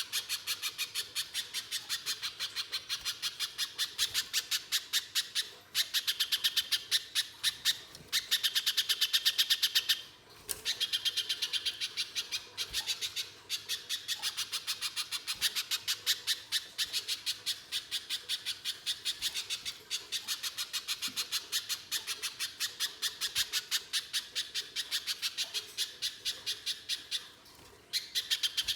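Little spiderhunter (pijantung pisang) in full harsh song: long runs of rapid, sharp repeated notes, about five a second, broken by a few short pauses.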